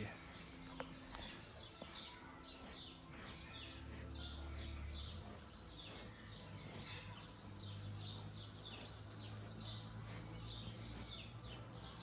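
Small songbirds calling from the trees: a steady run of short, high chirps, several a second, over a faint low hum.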